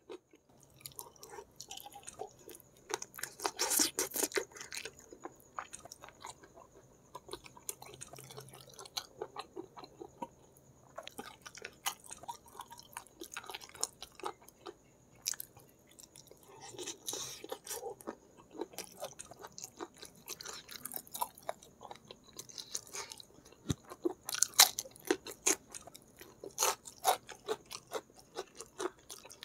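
A person chewing and biting on spicy braised chicken feet, with irregular crunches and clicks of cartilage and skin, close to the microphone.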